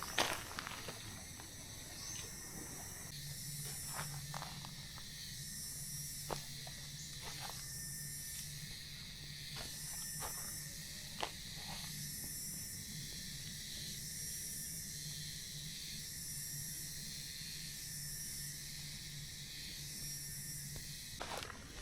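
Insects buzzing in a hissing chorus that swells and fades about once a second, over a steady low hum, with a few faint clicks.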